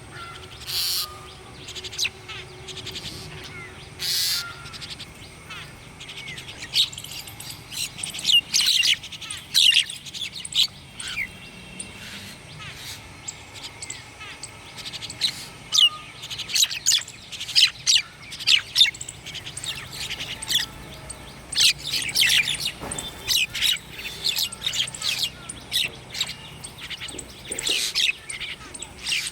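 Songbirds chirping and calling: many quick, high, downward-sweeping chirps in irregular bursts, busier in a few stretches, over a faint steady background hum.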